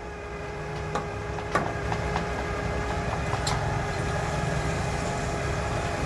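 Forklift engine running, growing louder over the first couple of seconds and then holding steady, with a few sharp metallic clicks and knocks.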